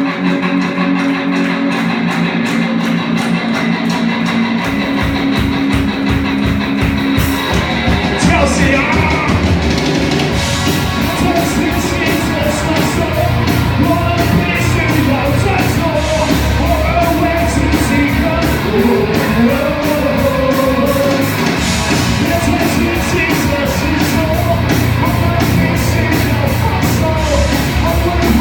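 A rock band playing live: a held guitar chord, then the drums come in a few seconds in and singing joins soon after.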